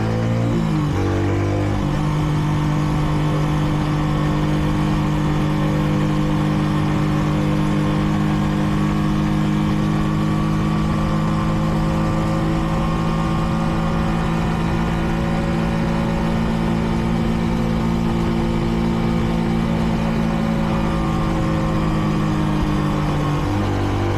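Kreidler Dice CR 125 single-cylinder motorcycle engine under way: the pitch rises about two seconds in, holds at a steady cruising speed, then drops near the end as the revs fall. The bike is still in its break-in period and is held to about 70 km/h.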